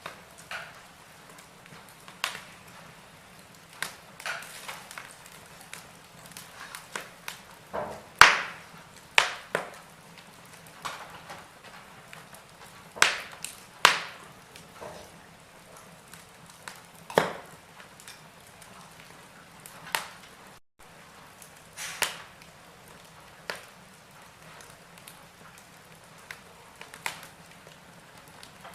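Wood fire burning in a fireplace, crackling with irregular sharp pops and snaps over a soft steady hiss; the loudest pop comes about eight seconds in.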